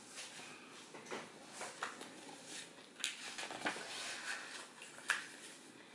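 Quiet room with faint rustling and a few soft, short clicks, the sharpest about three seconds in and again about five seconds in.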